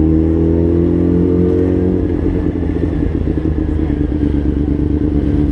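600 cc inline-four sport motorcycle engine running on the move. Its note rises slightly, then drops off about two seconds in and carries on rougher.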